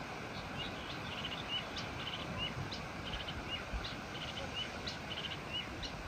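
A small bird chirping repeatedly in short rising chirps, about one every half second, over a steady outdoor hiss.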